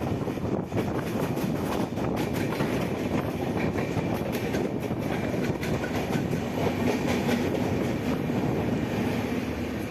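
Passenger train running along the track: a steady rumble of wheels on rail, with rapid clicks and clatter over the rail joints.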